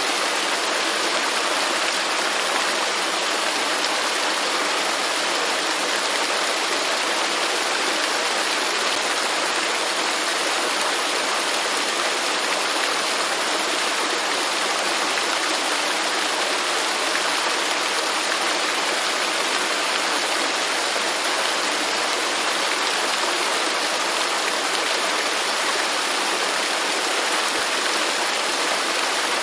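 Waterfall and rushing stream water, a steady dense hiss of falling water that does not change.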